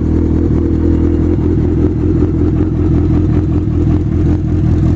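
1986 Yamaha FJ1200's air-cooled inline-four engine running steadily through a Supertrapp 4-into-1 exhaust, just after it has been started.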